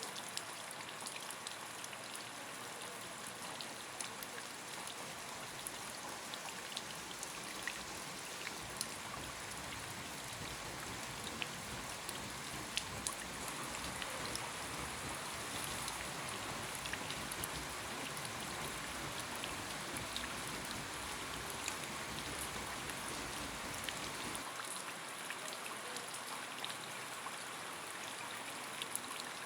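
Heavy rain falling steadily, with a dense hiss and many separate drops ticking sharply on hard surfaces. A low rumble runs underneath through most of it and cuts off abruptly about five seconds before the end.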